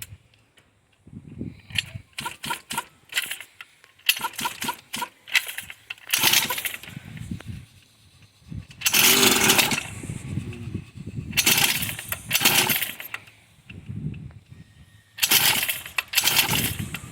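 Small mini dirt bike engine, popping briefly at first and then revved hard in four bursts of about a second each, dropping back between them.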